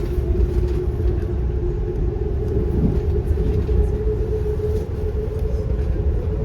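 Steady low rumble of a moving train, with a steady hum running through it.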